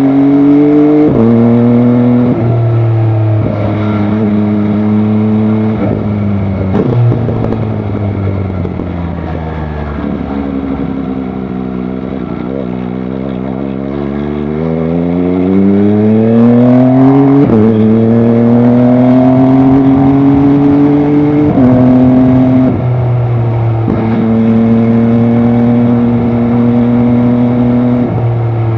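MV Agusta Dragster 800 RR's three-cylinder engine pulling hard through the gears: its note climbs and drops sharply at each upshift, eases off and falls for a few seconds about halfway through, then climbs again through more shifts.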